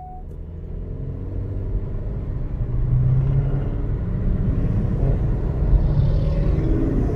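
Car engine rumbling, getting louder over the first few seconds and then holding steady.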